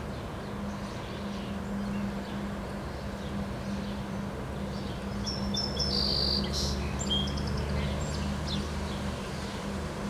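Birds chirping, a cluster of short high calls about five to seven seconds in, over a steady low rumble.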